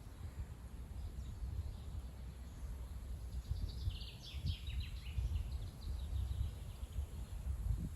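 Strong gusty wind buffeting the microphone, a low rumble that swells and eases. A bird chirps briefly about halfway through.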